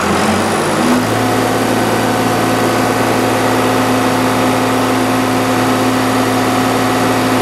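Small tractor's engine being revved up from idle, rising in pitch over about the first second, then held steady at a higher RPM. It is cold-running and being brought up in revs to warm it and circulate its fluids.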